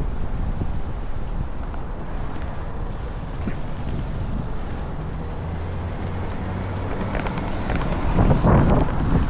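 Strong wind buffeting the microphone: a steady low rumble, with a louder gust about eight seconds in.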